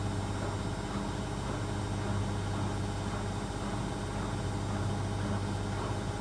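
Zanussi ZWC 1301 front-loading washing machine on its final spin, the drum spinning at speed with a steady, even hum.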